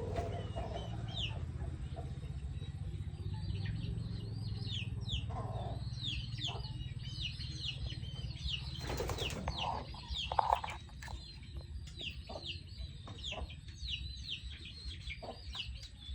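Chickens: many short, high peeps that slide downward in pitch, repeated throughout, with a few lower clucks. A short noisy rustle comes about nine seconds in, and a low rumble runs under the first half.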